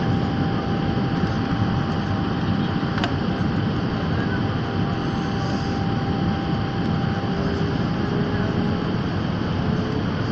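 Steady roar of engines and airflow inside a passenger airliner's cabin in flight, with a faint steady whine and a single click about three seconds in.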